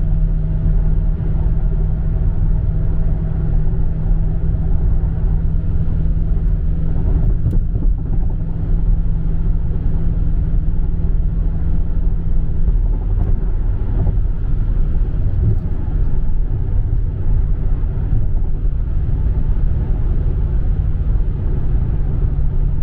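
2017 Dodge Charger Scat Pack's 392 Hemi (6.4-litre) V8 and road noise on the move, heard from inside the cabin as a steady low drone.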